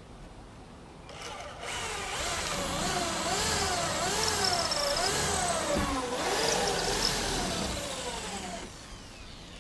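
Electric drill running for about seven seconds, its motor speed surging up and down repeatedly, then winding down near the end.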